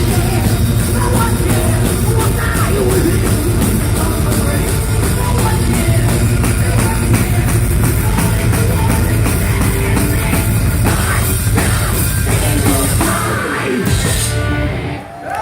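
A live heavy metal band playing loud with a drum kit, recorded with poor sound. The bass and drums drop out near the end as the song finishes.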